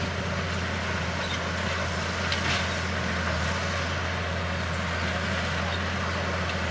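Bulldozer's diesel engine running steadily with a constant low hum, and one short sharp knock about two and a half seconds in.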